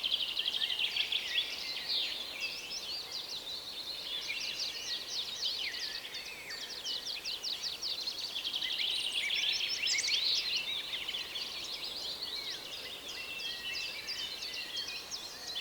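Spring woodland bird chorus: many songbirds singing at once, with overlapping high trills, chirps and quick repeated notes.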